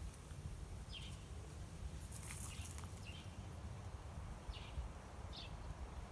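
A small bird chirping faintly: four short, falling notes spread over a few seconds, over a low steady rumble, with a brief rustle about two seconds in.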